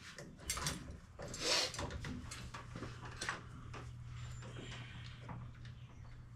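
Irregular metallic clicks and knocks of hand tools working on fasteners in an engine bay, the loudest about one and a half seconds in. A steady low hum sets in about two seconds in.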